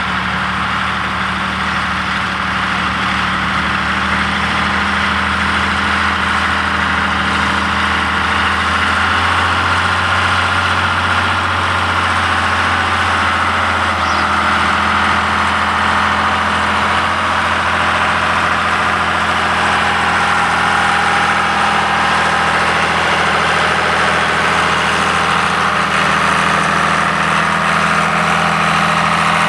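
John Deere 3350 tractor's diesel engine running steadily while ploughing, its note shifting slightly a few times.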